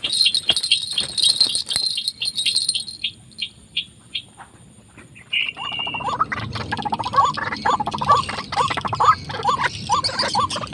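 Bird calls: a fast run of ticking notes that slows and fades over the first four seconds, then, from about six seconds in, a steady series of repeated calls, about two a second, of the kind given by white-breasted waterhens (ruak-ruak).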